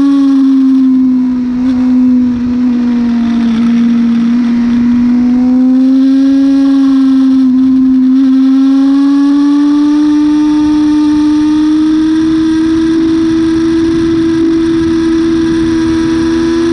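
Yamaha R6 inline-four engine held at high revs in second gear, its note dipping slightly through a corner and then rising steadily as it accelerates out, with wind rush over the bike.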